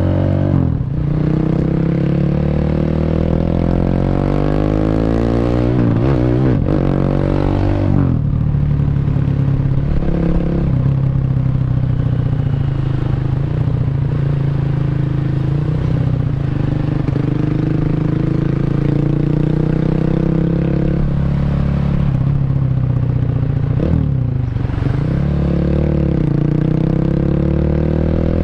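Single-cylinder four-stroke Honda Revo underbone motorcycle, bored up to 150cc and fitted with a CLD C7 aftermarket exhaust, under way: the engine revs climb and then drop sharply several times as gears change, then hold fairly steady at cruising speed for a long stretch before revving up again near the end.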